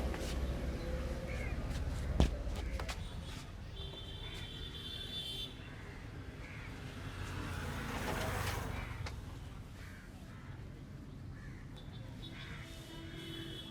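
Birds calling now and then in the background, with one sharp crack about two seconds in.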